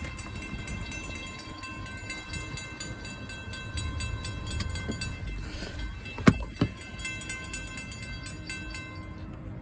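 Railroad crossing warning bell ringing in a fast, steady series of strokes, heard from inside a car just after the crossing lights start flashing. A single sharp knock comes a little after the middle.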